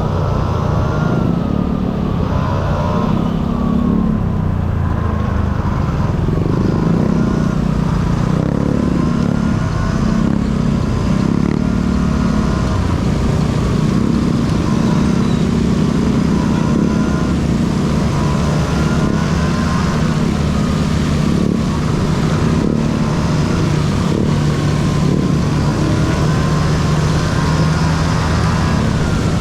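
Honda Dio AF18 scooter's two-stroke engine running under way, its pitch rising and falling again and again as the throttle opens and closes.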